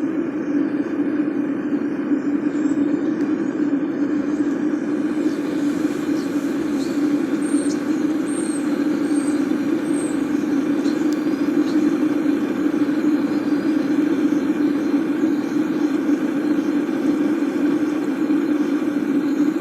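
Homemade aluminum-melting furnace's burner flame running steadily with the lid on, a continuous even noise with a low hum at its core.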